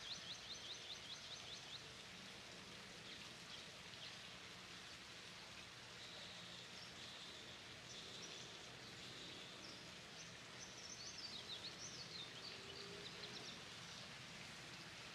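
Faint outdoor ambience with small birds chirping: a rapid run of short chirps near the start and another near the end, over a low steady hiss.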